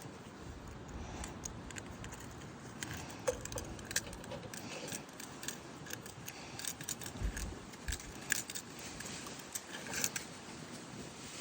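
Light, irregular metallic clicking and jingling from a torch tip cleaner's set of thin wire picks being handled and pushed through carburetor jets to clear them, with a couple of dull knocks about midway.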